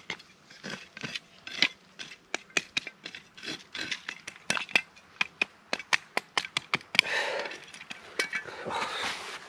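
Metal camp kit clinking and clattering as it is handled: a quick, irregular run of sharp clicks and chinks, with a couple of brief rustling scuffles near the end.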